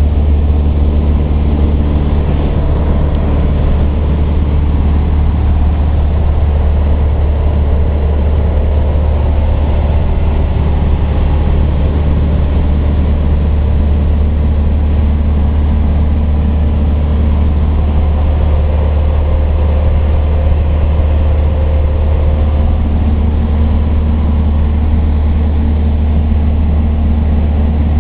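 Cessna light aircraft's engine running steadily at constant power, a loud, even drone that does not change.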